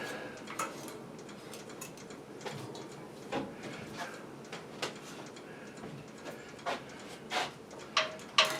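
Scattered light clicks and taps at irregular intervals, the sound of tools and small metal parts being handled during a small-engine repair.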